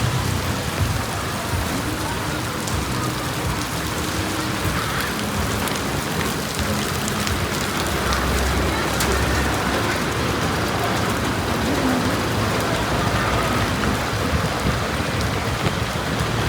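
Heavy rain pouring steadily, a dense even hiss of drops on the street and surfaces.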